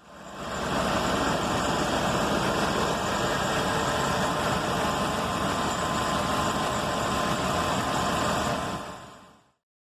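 A vehicle engine running steadily at idle, faded in at the start and faded out near the end.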